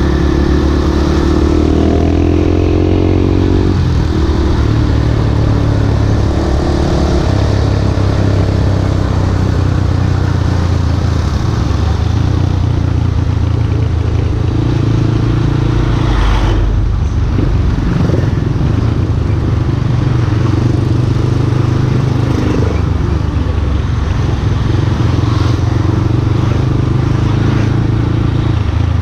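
Yamaha Scorpio Z's single-cylinder four-stroke engine heard from the rider's seat while riding, its pitch climbing in the first few seconds and then stepping up and down with throttle and gear changes. A brief sharp sound cuts through about halfway.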